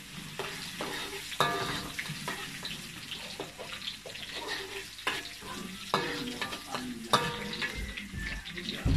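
Shallots, garlic and belacan (shrimp paste) sizzling in hot oil in a wok as a metal spatula stirs them, with sharp clinks and scrapes of the spatula against the pan now and then.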